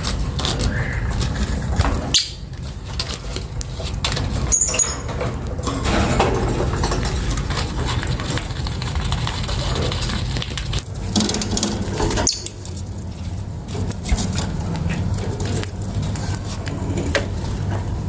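Pet lovebirds moving about: rustling, scratching and wing flaps with a few short chirps, over a steady low hum. The sound changes abruptly a few times.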